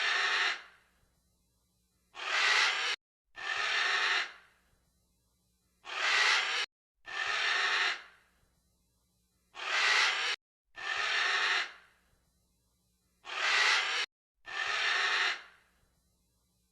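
Heavy breathing in evenly repeating pairs, a short breath followed by a longer one, about every four seconds, with silence between.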